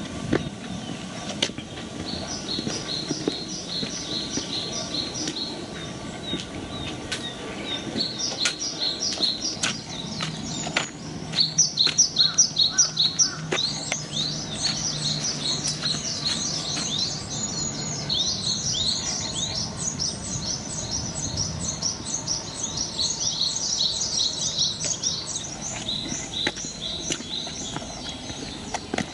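A songbird singing in long runs of quick, high chirps, with regular footsteps on the path, loudest a little under halfway through.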